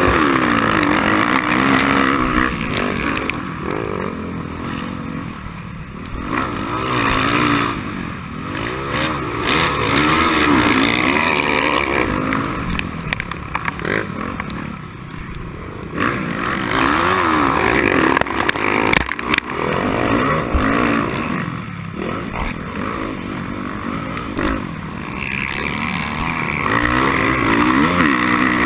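Motocross dirt bike engine under racing load, revving up and down repeatedly as the rider works the throttle and gears.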